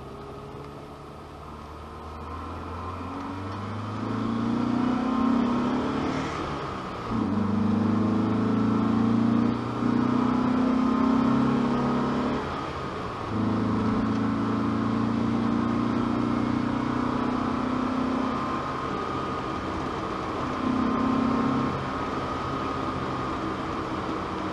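Opel Kadett C Coupe 2.0E's four-cylinder engine and exhaust, heard from inside the cabin while driving. The engine note builds over the first few seconds as the car accelerates, then holds under load, dropping briefly several times.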